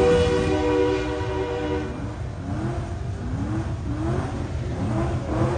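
Engine sound held at a steady pitch for about two seconds, then a run of short, quick revs, each rising in pitch, about two a second.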